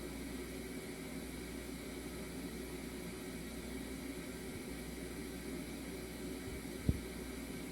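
Steady hiss and water bubbling of a running aquarium, with one short low thump about seven seconds in.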